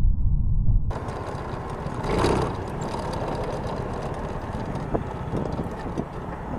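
Motorcycle engine running with steady wind and road noise. The sound changes abruptly about a second in, from a muffled low rumble to a brighter, hissier noise, with a brief swell a little after two seconds.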